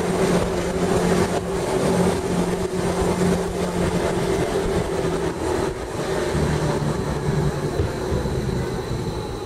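Ride inside a Gornergratbahn electric rack-railway car running downhill: a steady drive whine and rail rumble. The lower hum steps down in pitch about six seconds in as the train eases off.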